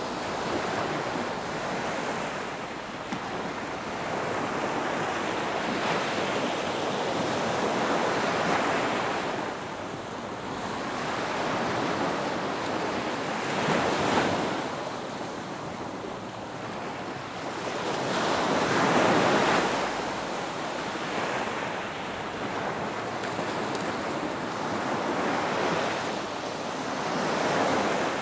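Ocean surf breaking on a beach: a broad rushing wash that swells and recedes in slow surges every few seconds, the strongest about halfway through.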